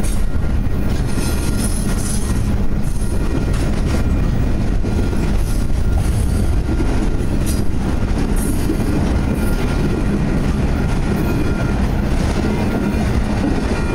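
Double-stack intermodal freight cars rolling past, their steel wheels clattering on the rails in a steady, loud rumble.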